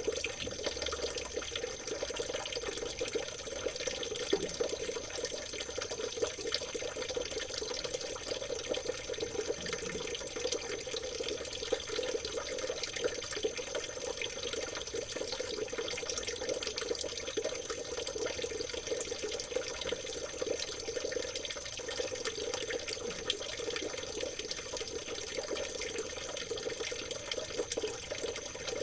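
Stream water babbling and trickling steadily, with a thin, steady high tone above it.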